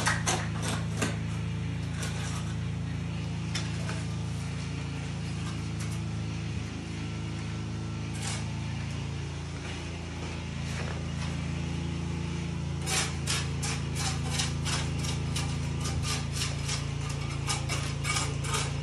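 Tools scraping through wet concrete as a floor is laid, over a steady low machine hum. From about two-thirds of the way through, the scraping comes as a quick run of rasping strokes, several a second.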